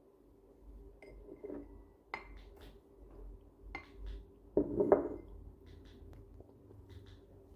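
Dishes and glassware being handled: a few light clinks, then a louder clatter about five seconds in, over a faint steady hum.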